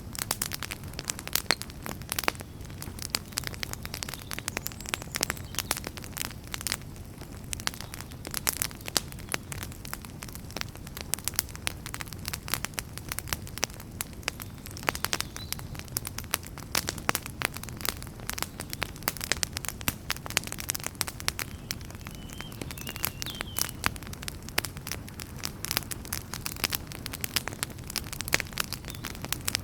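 Wood fire burning in a fireplace: logs crackling with frequent irregular sharp pops over a low, steady rumble of the flames.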